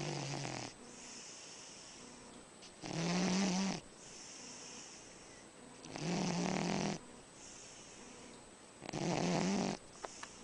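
Dog snoring while asleep: four loud snores about three seconds apart, each a low rasp lasting under a second, with softer breathing between.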